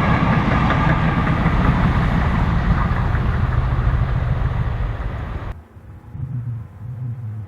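Heritage diesel locomotive engine running loud and steady. It cuts off abruptly about five and a half seconds in, leaving a quieter low throbbing.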